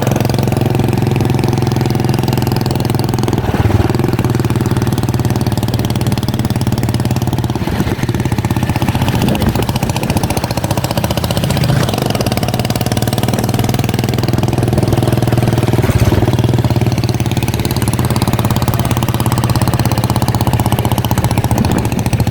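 Motorcycle engine running steadily while riding, with no marked change in speed.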